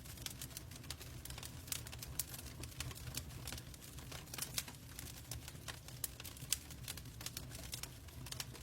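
Wood fire in a fireplace crackling, with many small irregular pops and snaps over a low steady rumble.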